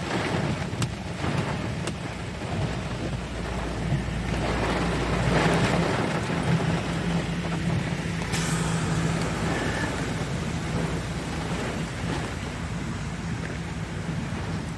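Strong gusty wind and rain of a severe thunderstorm, with a deeper rumble swelling about four to six seconds in.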